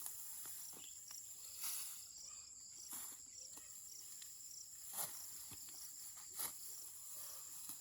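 Insects chirping steadily in a high, faint drone. Four short sharp sounds come at intervals of a second or two.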